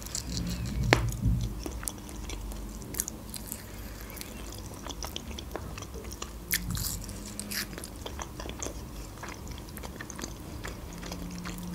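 Close-miked chewing of smoked mackerel, eaten slowly, with small wet mouth clicks and smacks scattered throughout.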